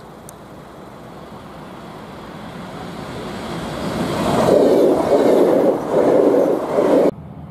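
A train approaching and passing close by: a rush that builds steadily, turns loud with uneven surges as it goes past, then cuts off abruptly near the end.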